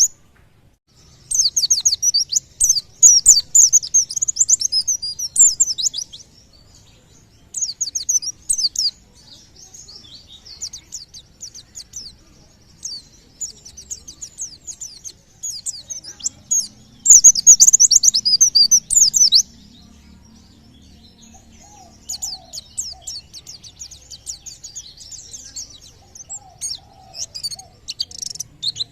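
White-eye (pleci) singing in rapid, high, chattering phrases a few seconds long, separated by short pauses, with the loudest phrase a little past the middle.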